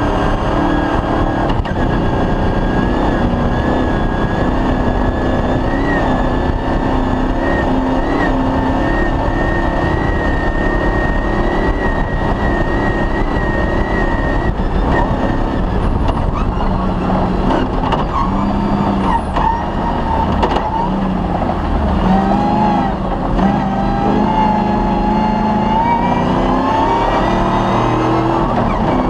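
Off-road rally car's engine running hard at speed, with a steady high whine through the first half and a few short knocks in the middle; the revs climb over the last few seconds.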